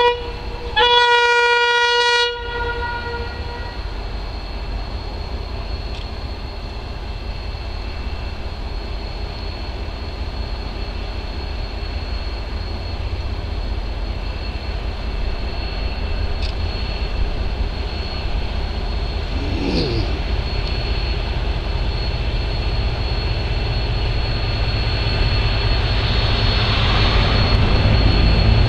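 Irish Rail 071 class diesel locomotive sounding its horn, a short toot then a held blast of about a second and a half, then its EMD two-stroke V12 diesel engine working under power as it pulls the train away, growing louder toward the end.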